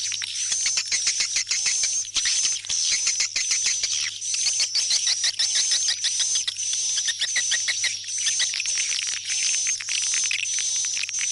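Swiftlet calls: a continuous rapid twittering of high chirps and clicks, repeating in short phrases, with a steady low electrical hum underneath. This is the kind of swiftlet call played to draw swiftlets back to a nest house.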